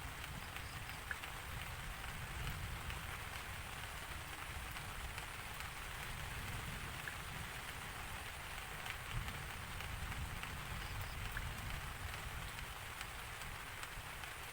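Steady rain falling, an even hiss with scattered droplet ticks and a low rumble underneath.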